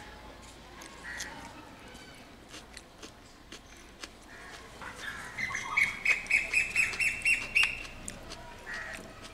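Birds calling outdoors: a single call about a second in, then a quick run of about ten loud calls from a little past the middle, roughly four a second.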